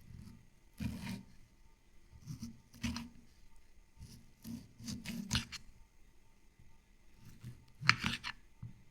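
Food-preparation handling: short, irregular cutting and scraping strokes, the loudest near the end.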